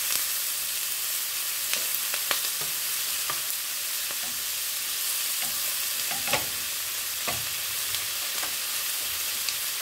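Diced bell peppers and onion sizzling in a frying pan, stirred with a wooden spoon that knocks lightly against the pan several times.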